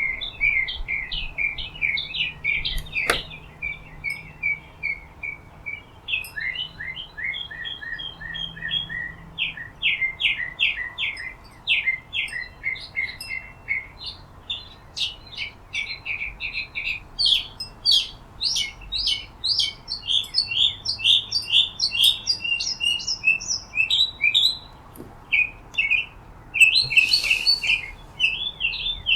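Several small birds chirping in a busy, overlapping chorus of short, rapid chirps. A single sharp click sounds a few seconds in, and a brief harsher call near the end.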